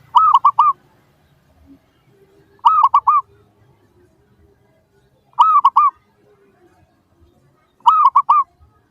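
Zebra dove (perkutut) cooing: four short phrases, each of three or four quick arched notes, coming about every two and a half seconds.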